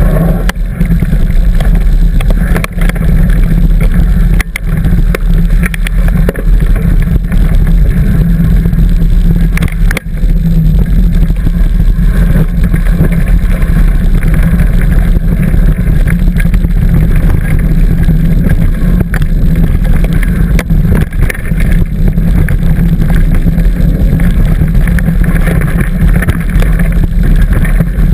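Steady low wind rumble on the microphone of a camera riding along on a bicycle, with scattered knocks and rattles as the bike goes over the trail.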